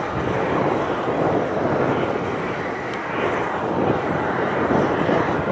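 Jet airliner engines rumbling as a departing aircraft passes, a steady rushing noise that wavers in level.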